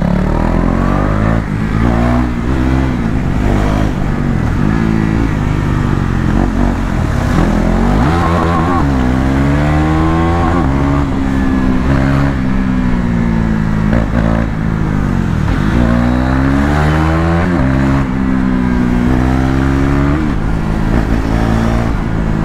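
KTM Duke 390 single-cylinder engine under riding load, its pitch rising and falling repeatedly as the bike accelerates, shifts and slows.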